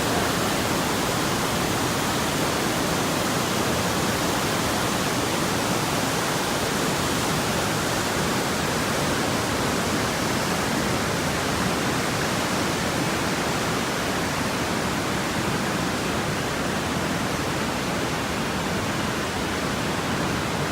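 Waterfall pouring: a steady, even rush of falling water with no change throughout.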